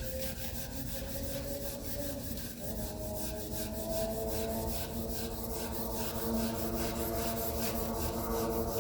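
Sanding on the GMC Yukon's door paintwork: a fast, even rubbing rhythm of about five strokes a second over a steady whine.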